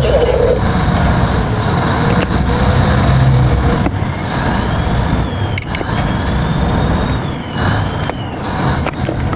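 Tugboat working in rough, windy seas: a continuous engine rumble under a steady rush of wind and water, with a couple of sharp knocks about two and five and a half seconds in.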